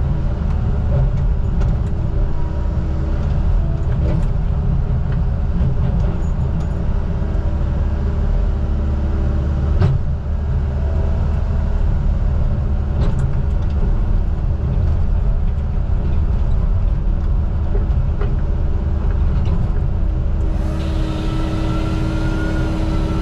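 Heavy logging machine's engine running steadily under load, with a few sharp knocks along the way. Near the end a louder hiss joins in with a faint rising whine, then stops.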